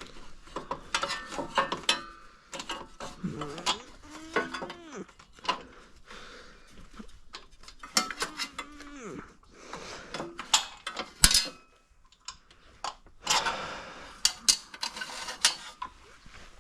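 Hand tools clinking, knocking and ratcheting against the metal parts of a snowblower during repair work, with a loud sharp knock about eleven seconds in.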